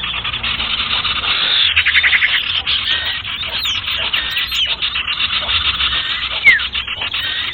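Bird-lure recording of sirtu birds calling: many overlapping chirps and rapid trills, busy and unbroken, with one loud downward-sliding call about six and a half seconds in. The calls sound dull, with the highest notes cut off.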